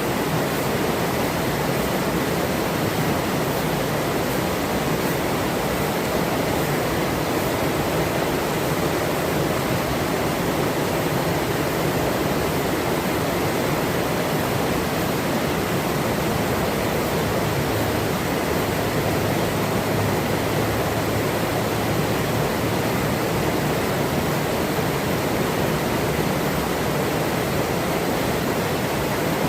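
Forest river running, a steady, even rush of flowing water.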